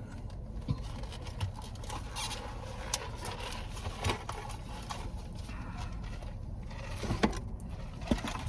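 Scattered soft clicks and lip smacks of someone eating, over a steady low hum.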